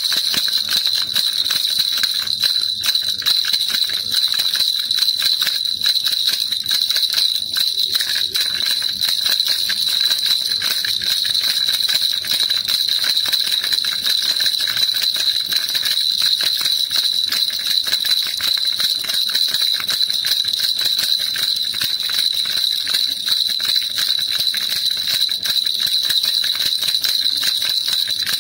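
Baby rattle shaken continuously without pause: a dense, even stream of rapid rattling clicks with a bright, tinkling ring.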